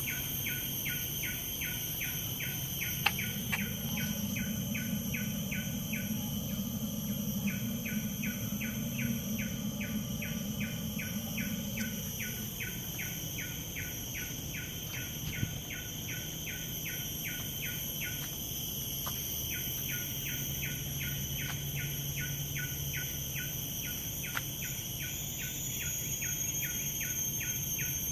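Tropical forest ambience: insects keep up steady high-pitched trills, with a rapid chirping call repeating about four times a second that pauses briefly twice. A low rumble rises a few seconds in and fades out near the middle.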